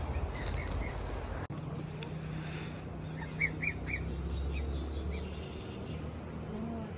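Short bird chirps in quick little groups of three or four, heard twice, over a low steady background rumble.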